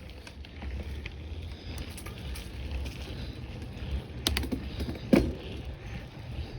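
Bicycle being ridden: scattered clicks and rattles from the bike over a low wind rumble on the phone's microphone, with a sharper click about four and five seconds in.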